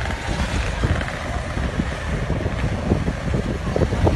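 Yamaha RX-King two-stroke motorcycle engines running with uneven low popping, mixed with wind buffeting the microphone.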